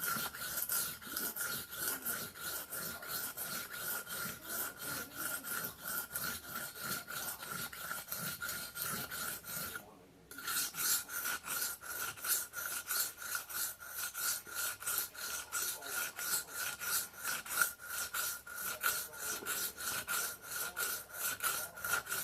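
Knife blade stroked quickly back and forth on a whetstone, rasping at about three strokes a second, with a brief pause about ten seconds in.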